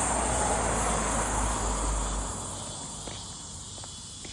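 Insects calling outdoors in a steady, high-pitched chorus. A low rushing noise, loudest at the start, fades away over the first two or three seconds.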